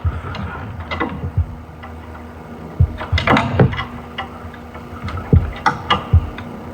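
Irregular clicks, clinks and knocks of hand tools working on metal parts in a car's engine bay, with a busier cluster about three seconds in and again near the end, over a faint steady hum.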